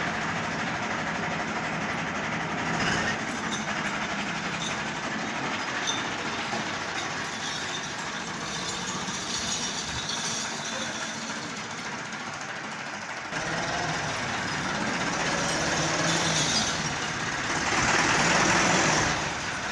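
Vehicle engine running steadily, a low hum under a noisy haze. The sound changes abruptly about two-thirds of the way through, as at a cut, and is a little louder after it.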